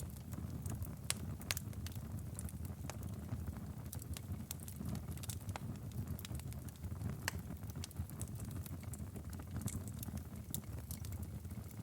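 Wood fire in a fireplace crackling: a steady low rumble of the flames with irregular sharp pops and snaps from the burning firewood.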